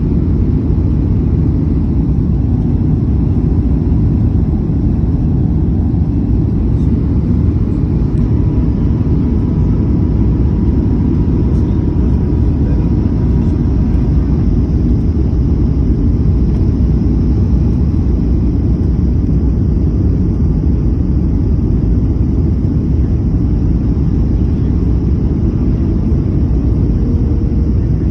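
Passenger airplane noise heard from inside the cabin: a steady low rumble of engines and airflow that holds an even level throughout.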